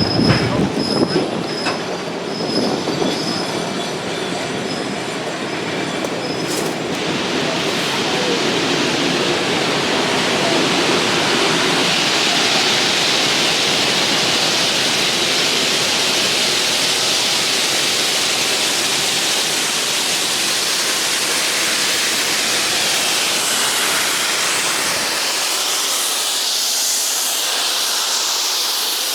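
Geared steam logging locomotive and train running by, with an intermittent high-pitched wheel squeal for about the first seven seconds, then a long, steady rush of running noise and steam hiss.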